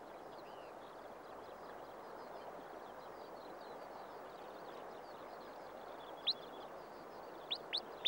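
Wrybill calls: short, sharp upward-sweeping notes, one about six seconds in and a quick run of them near the end. Under them are faint high twitters and the steady rush of a shallow braided river flowing over shingle.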